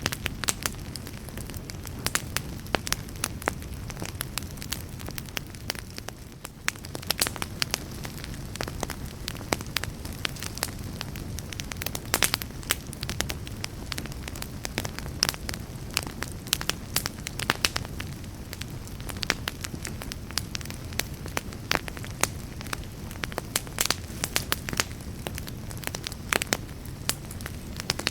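Wood fire crackling: frequent sharp pops and snaps at irregular intervals over a steady low rumble of burning.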